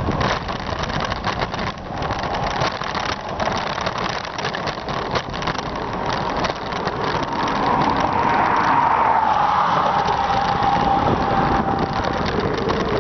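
Wind buffeting the microphone on a moving bicycle, with road noise. In the second half a steady whine drifts slightly lower and fades out.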